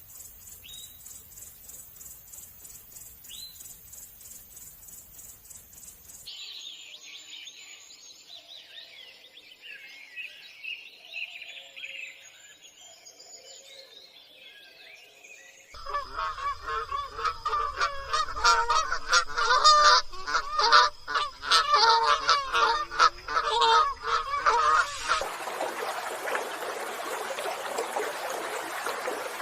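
A high, rhythmic insect-like chirring with a couple of faint bird chirps, giving way after about six seconds to lighter bird song. About halfway through, loud, repeated honking calls of geese or similar waterfowl take over. Near the end these give way to the steady rush of flowing water.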